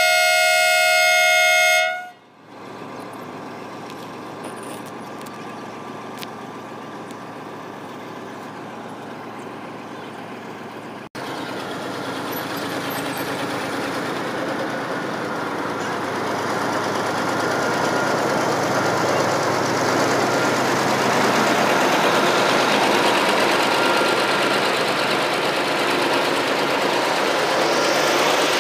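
A diesel locomotive's horn sounds for about two seconds and cuts off. Then the locomotive's engine and the coaches' wheels on the rails grow steadily louder as the train pulls out past the platform.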